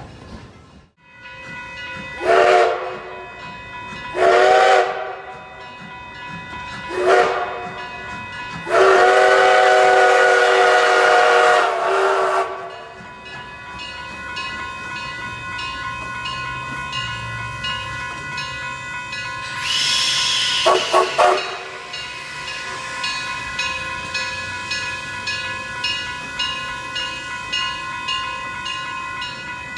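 Narrow-gauge steam locomotive's chime whistle: three short blasts, then one long blast of about three and a half seconds. About twenty seconds in there is a brief hissing burst with a few quick toots, and after that the train runs with a steady pulsing beat.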